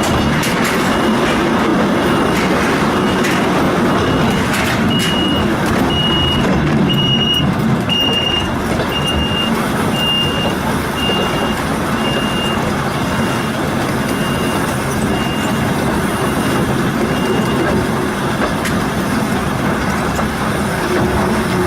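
Volk's Electric Railway car running with a steady rumble and noise, while a high warning beep repeats about once a second, swelling louder and then fading away before the end.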